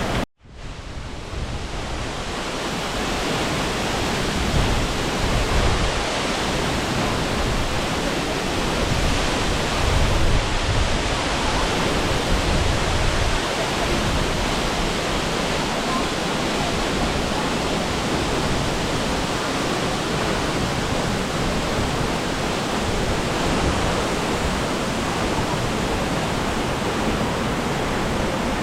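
Steady rush of a waterfall, a dense, even hiss of falling water with slow swells in the low end. It cuts out briefly right at the start, then fades back in.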